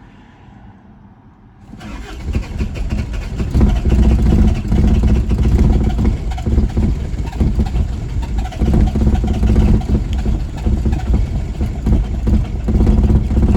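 The 1981 Isuzu Pup's 2.2-litre C223 diesel engine is being cranked hard on the starter in a cold start. It kicks in suddenly about two seconds in and runs loud and unsteady for some twelve seconds, sounding really weird. The engine is reluctant to start after sitting a week, which the owner suspects is fuel draining out through a leak at the CSD.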